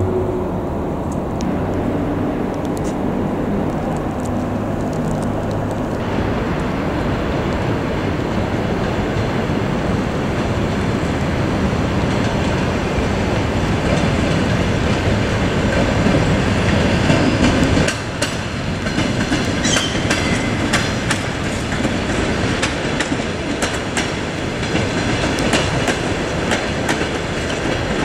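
Train running through a station, wheels clattering over rail joints. A steady low hum sounds for the first few seconds. About eighteen seconds in, the sound changes abruptly, and a run of sharp clicks follows.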